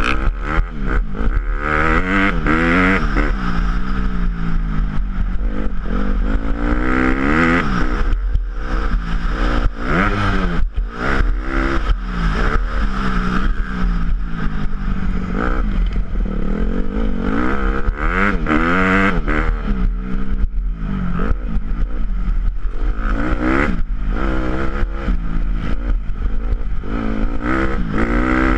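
Motocross dirt bike engines revving hard and shifting, several overlapping, their pitch climbing and dropping again and again.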